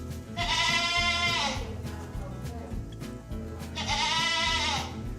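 Goat bleating twice, two long wavering calls of about a second each, the second near the end.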